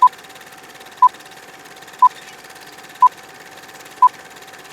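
Short electronic beeps at one steady pitch, one every second, five in all, over a constant hiss and a faint steady tone.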